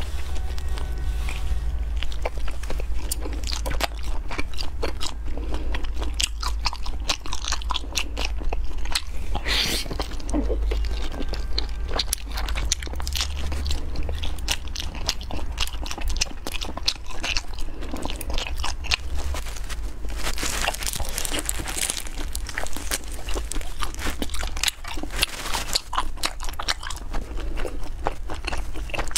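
Close-miked biting and chewing of grilled sweet potato starch sheets (shaopi) coated in chili flakes, with crackly crunching throughout. A steady low hum runs underneath.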